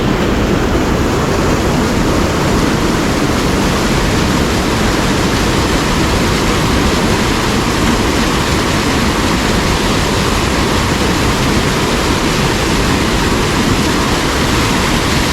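Steady rushing of a fast mountain stream, white water pouring over rocks.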